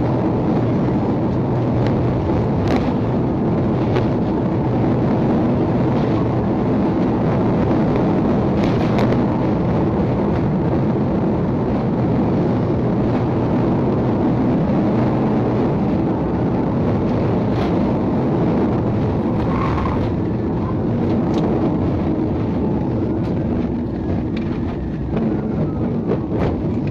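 Police car's engine, tyre and wind noise during a high-speed pursuit, a loud steady rumble, with a few faint clicks.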